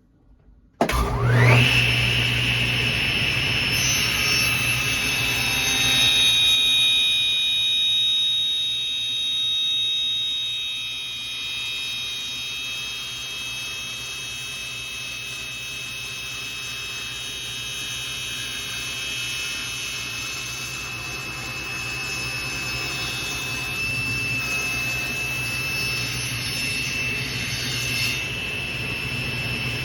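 Electric power saw switched on, its motor spinning up with a quickly rising whine and then running at a steady high whine, used to cut a chunk off a zebrawood block.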